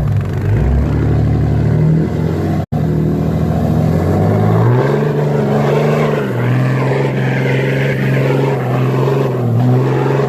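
Dodge Cummins 6.7-litre inline-six turbo-diesel with a full exhaust running hard, its revs climbing about four and a half seconds in and then held high. The sound cuts out for an instant just under three seconds in.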